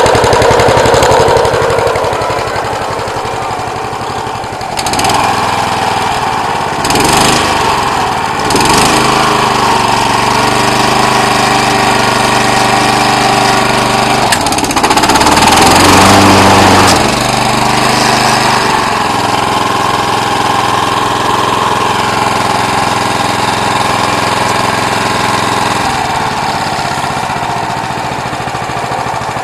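Honda HRA214 mower's single-cylinder engine running after a cold start, surging and changing speed a few times before settling into a steady run.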